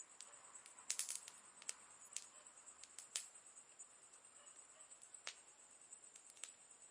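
Wood campfire crackling faintly: irregular sharp pops, with a quick cluster of them about a second in, then single pops every second or so.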